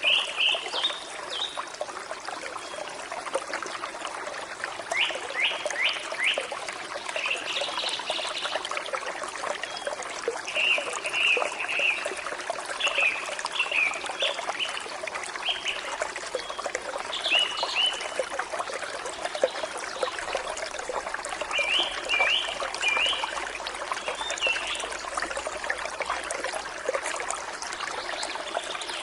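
Forest stream trickling and bubbling steadily over stones, with a small bird repeating short, high chirping phrases every few seconds.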